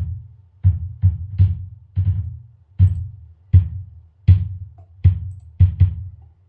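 Addictive Drums 2 virtual drum kit playing a steady beat through its soloed room-microphone channel, compressed and with a cut around 600 Hz. Deep bass drum hits land about every three-quarters of a second, with some sharper, brighter hits among them.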